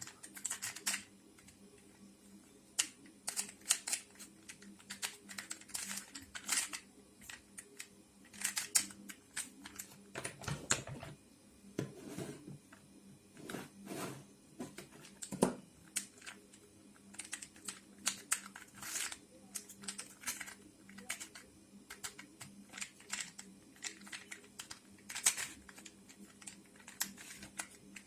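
Plastic pieces of a 3D-printed Linked Cube twisty puzzle clicking and clacking as its layers are turned by hand, in irregular clusters of quick clicks, with a few lower scraping turns around the middle.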